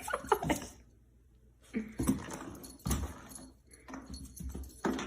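A puppy plays with frozen banana pieces on a hard floor: irregular clicks, clatters and scrapes, with a short lull about a second in.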